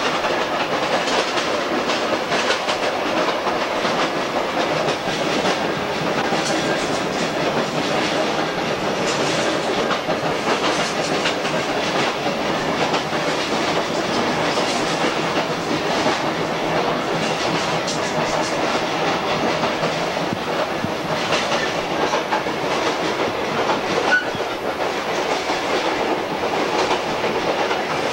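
A train running at speed, heard from inside the cab: a steady rumble of running noise with irregular clicks from the wheels passing over rail joints.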